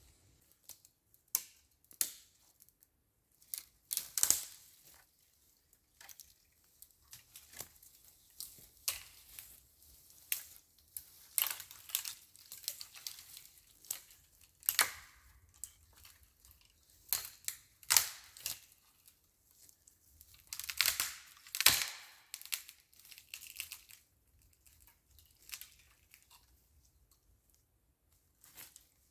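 Irregular snapping, tearing and rustling of twigs and brush being worked by hand, in uneven bursts with short pauses.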